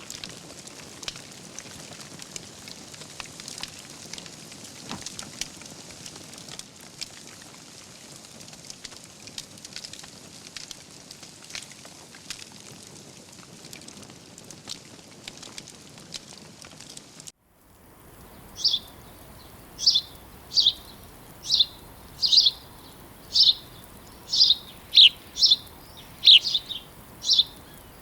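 Fireplace wood fire crackling, with a steady hiss and frequent small pops. About two-thirds of the way in it cuts off abruptly, and a bird takes over with short, high chirps repeated one or two a second over a soft steady hiss.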